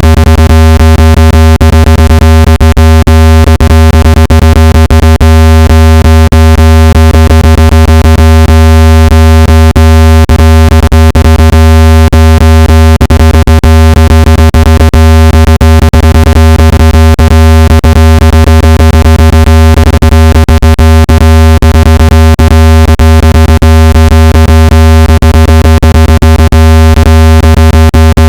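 Loud, steady low electronic tone with a stack of overtones, broken by frequent brief clicks. It is a phone speaker-cleaning tone, played to vibrate water and dust out of the speaker.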